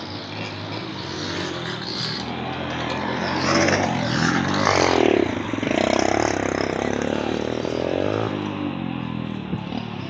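Dirt bike engines revving on a motocross track, one passing close about four to five seconds in with its pitch falling away.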